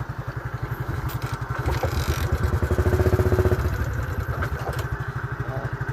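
A small engine running at idle with a steady, fast low pulse, getting louder about two seconds in and easing back after three and a half seconds.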